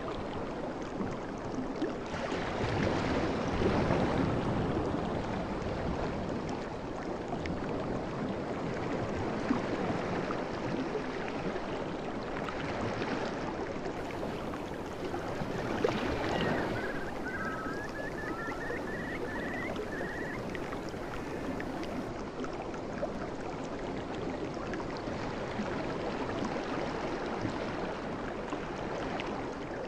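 Sea waves washing onto a beach, a continuous rush that swells louder about four seconds in and again around sixteen seconds. A faint run of high chirps sounds around the middle.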